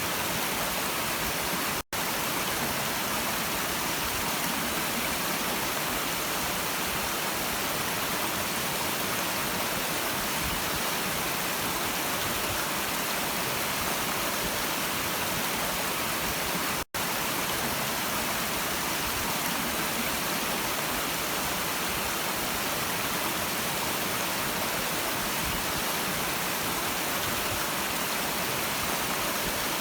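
Steady rushing of a flowing stream, an even hiss with little low end, cut twice by a split-second dropout, about two seconds in and again about fifteen seconds later.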